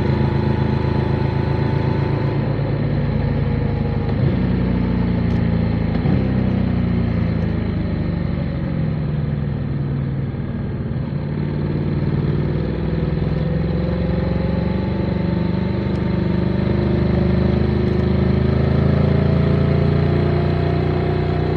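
Motorcycle engine running as the bike is ridden, its revs falling through the first half, then climbing steadily again.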